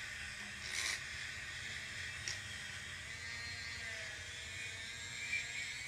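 Small high-speed motor running with a steady high-pitched whine, as of a rotary tool used for sanding metal, with a brief scraping noise about a second in.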